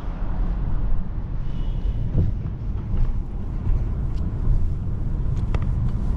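Steady low rumble of a car driving, engine and road noise, with a few faint clicks.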